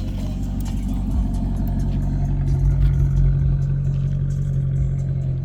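Maserati GranTurismo MC Sport's V8 engine running at a steady engine speed, its note swelling slightly about two to three seconds in.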